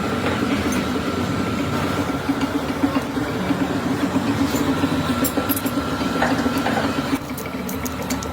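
A machine running steadily with a rattling hum, cutting off about seven seconds in.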